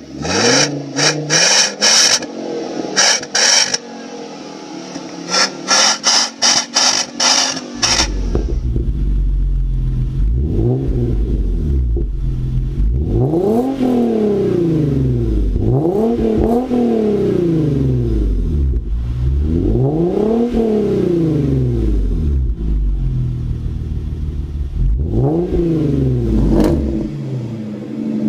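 Lexus LFA's V10 engine and exhaust: quick sharp throttle blips with crackles for the first several seconds, then a deep running note with several long revs that climb and fall back.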